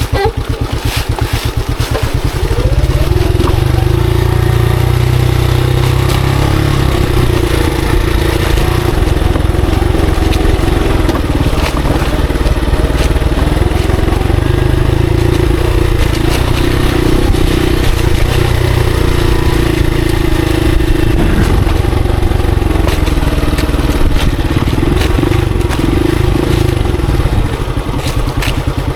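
Monarch Axis 125 trail motorcycle's 125 cc engine running under steady throttle. It gets louder about two seconds in and eases off near the end.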